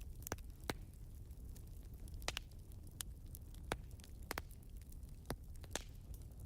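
Wood fire crackling in a fireplace: irregular sharp pops, one or two a second, over a low steady rumble of the burning logs.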